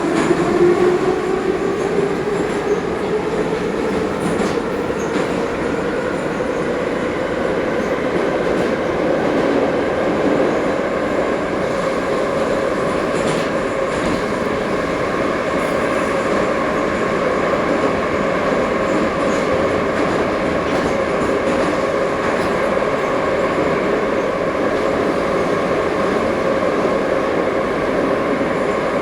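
Ezh3 metro train running: the traction motors' whine rises in pitch over the first few seconds as it picks up speed, then holds steady, over the continuous rumble of wheels on track.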